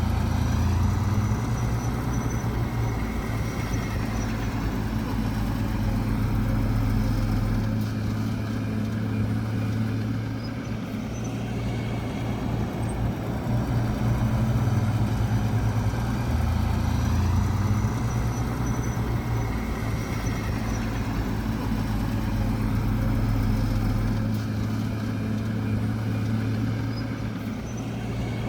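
Heavy diesel engine of earthmoving machinery running steadily, its note shifting briefly about a second in and again about seventeen seconds in as the load or revs change.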